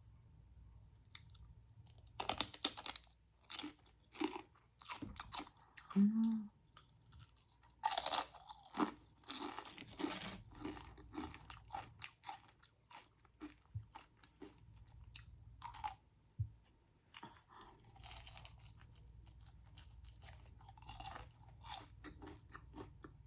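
Close-miked biting and chewing of crunchy chips: sharp, irregular crunches in bursts, with quieter chewing between them.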